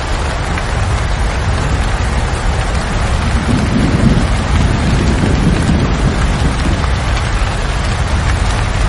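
Steady heavy rain, with a low rumble of thunder swelling and fading from about three and a half to six seconds in.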